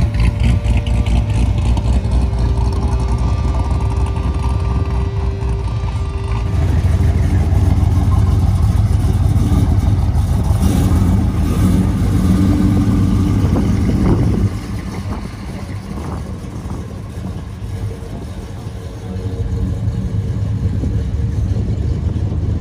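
A motor vehicle engine running, a steady low rumble with some pitched engine tones. It grows louder about six seconds in and falls back about fourteen seconds in.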